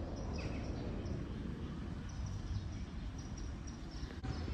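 Small birds chirping in short, scattered high notes over a steady low rumble of outdoor ambience.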